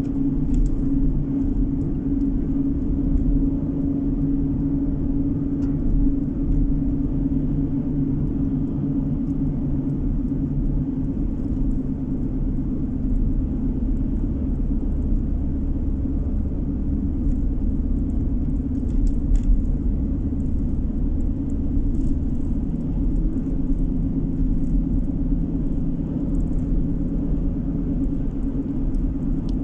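Steady road and engine rumble of a car driving along, heard from inside the cabin: a deep, even drone with a constant hum and no changes in speed.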